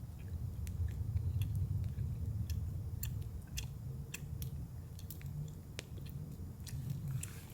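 Wood fire crackling: sharp, irregular pops and snaps over a low steady rumble.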